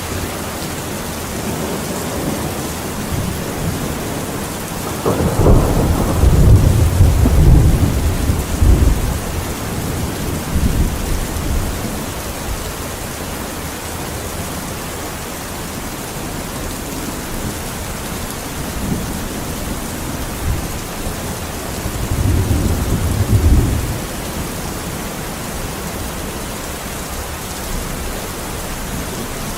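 Steady rain with two rolls of thunder: a long low rumble about five seconds in, the loudest part, and a shorter one about twenty-two seconds in.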